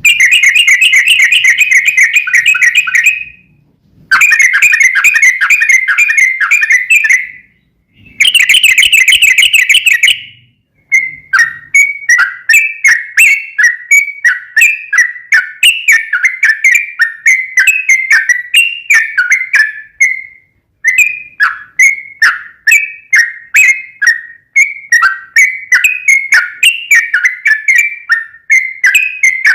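Yellow-vented bulbul (trucukan) singing loudly: three long, rapid rolling trills in the first ten seconds, then a fast run of short chirping notes with a brief break about two-thirds of the way in.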